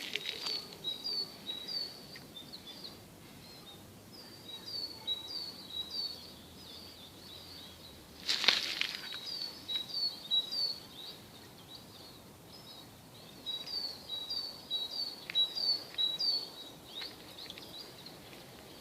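A songbird singing bouts of quickly repeated two-note phrases, several times, over a faint steady hiss. A short, louder noisy burst comes about eight seconds in.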